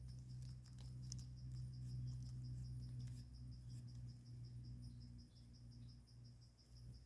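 An insect, likely a cricket, chirps steadily in a high, pulsing trill of about seven or eight pulses a second over a low, steady hum. A few faint clicks and rustles come about a second in and again around three seconds.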